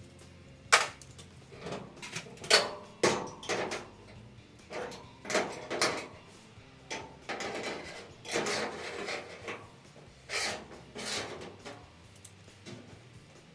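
Workshop handling sounds: about a dozen uneven knocks and clunks mixed with short scraping and rubbing, with brief pauses between them.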